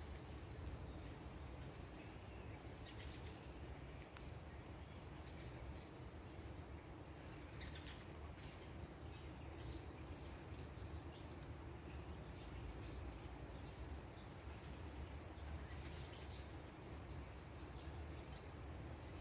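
Faint forest ambience: small birds give short, scattered high chirps over a steady low rumble of background noise.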